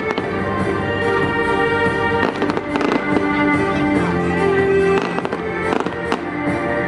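Fireworks going off in several sharp bangs with crackle, over music from the display's soundtrack.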